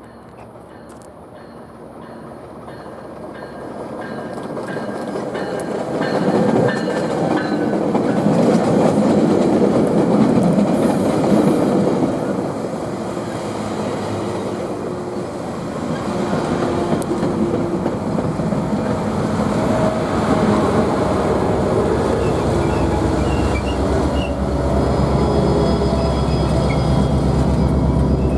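A train rolling past, steel wheels on the rails, building up over about the first six seconds and then staying loud. A deeper rumble joins in the last few seconds.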